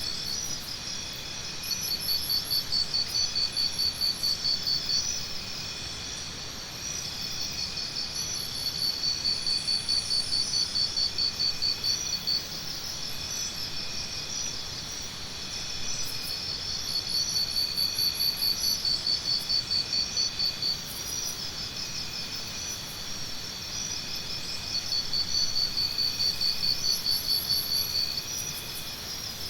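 Jungle morning ambience dominated by insects: a loud pulsing high trill that comes in bouts of a few seconds, about every eight seconds, over a steady high insect chorus, with faint higher chirps now and then.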